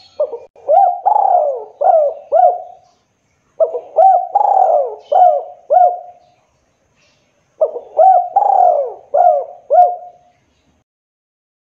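Spotted dove (tekukur) cooing: three identical phrases of several rolling coo notes each, about a second apart.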